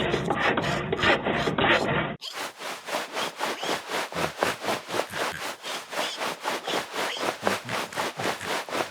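A hand tool worked back and forth in steady, rhythmic rasping strokes, several a second. About two seconds in there is a cut to a clearer, brighter stretch of the same stroking.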